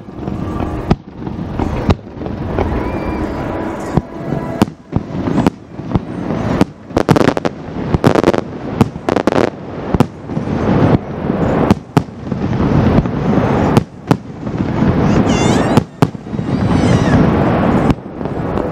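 Aerial fireworks shells bursting one after another, sharp bangs over a continuous rumble, coming fastest about a third of the way through, with a few whistles near the end.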